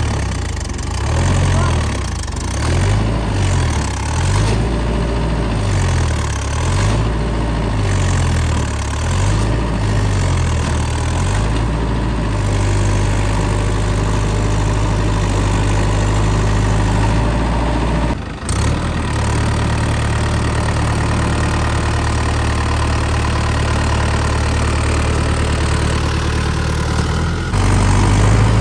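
Diesel tractor engines under load, revving up and down repeatedly during the first dozen seconds or so, then running at a steady speed.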